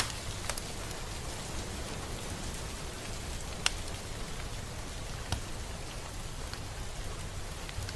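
Steady rain falling, an even hiss with a few close, distinct drops ticking out above it, the sharpest one a little past halfway.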